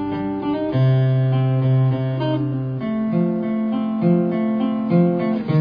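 Acoustic guitars playing sustained chords, with chord changes about a second in, again about three seconds in, and near the end.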